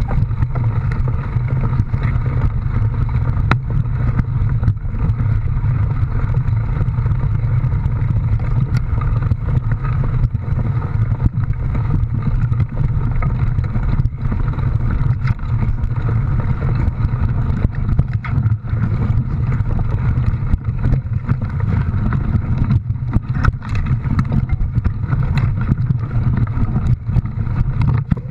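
A vehicle's motor running with a loud, steady low drone that holds even throughout.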